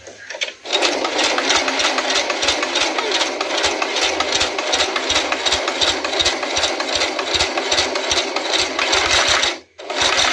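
Singer Heavy Duty 4423 electric sewing machine running fast, the needle mechanism clattering in a rapid, even rhythm as it stitches. It stops for a moment near the end and starts again.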